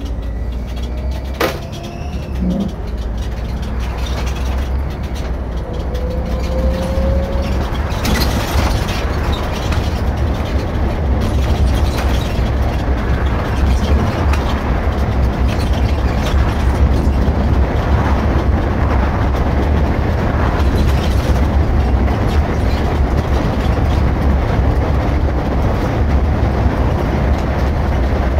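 Irisbus Récréo II coach on the move, engine rumble and road noise heard from the driver's seat. The noise builds over the first several seconds as the coach picks up speed, then holds steady. There is a single sharp click early on.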